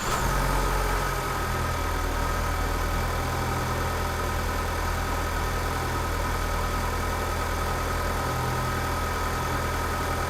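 2012 Ford Focus's 2.0-litre four-cylinder petrol engine idling just after being started, a little louder in the first second before settling to a steady idle.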